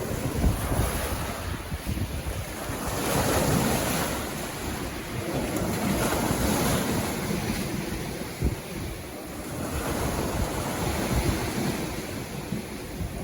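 Sea waves breaking and washing on the shore, swelling and falling back every few seconds. A low rumble of wind on the microphone runs underneath.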